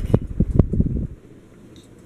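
Hampton Bay Huntington III ceiling fan running, its air blowing on the microphone as a loud, uneven low rumble that drops away about a second in, leaving a quieter steady whir.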